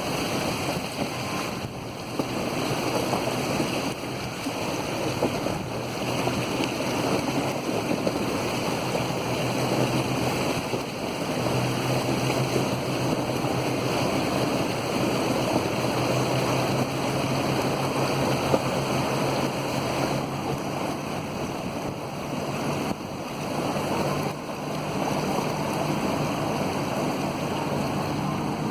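Vehicle driving through floodwater: a steady rush of water spraying and sloshing around the tyres and body, over a low steady engine hum.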